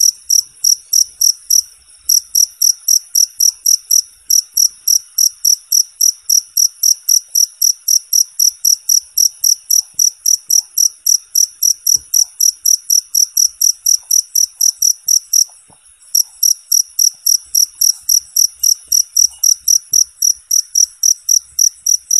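Cricket chirping loud and clear, a rapid train of high-pitched chirps at about four a second, broken by a few short pauses.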